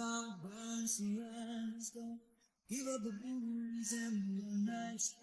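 A singer holding long, slow notes, with a short break a little over two seconds in.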